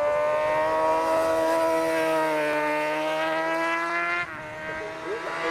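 Suzuki GSX-R 1000 superbike's inline-four engine held at high revs with a steady, high-pitched note. The revs dip slightly and climb again, then cut off abruptly a little over four seconds in.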